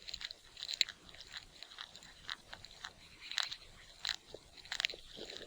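Chewing: irregular crisp crunches, several a second, with no steady rhythm.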